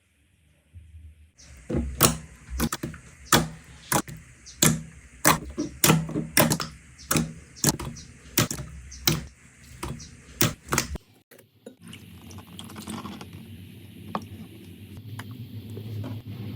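Slime being worked by hand, giving a run of sharp pops about two a second. It stops suddenly and gives way to a softer, steady squishing with faint crackles.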